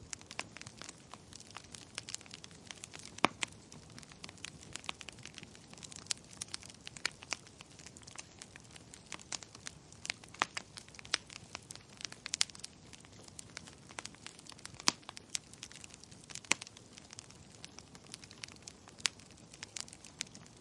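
Burning logs in a small wood fire crackling, with irregular sharp pops and snaps, a few of them louder than the rest.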